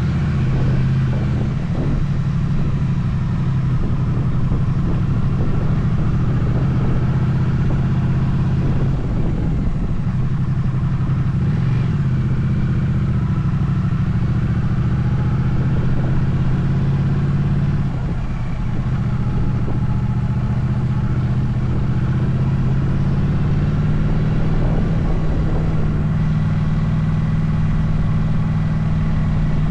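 Motorcycle engine running steadily while riding, heard from on the bike, its note shifting a little now and then with the throttle.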